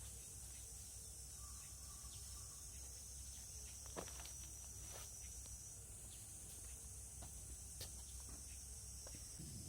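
Steady high-pitched insect chorus with a few light clicks and taps scattered through it, the clearest about four seconds in and near the end.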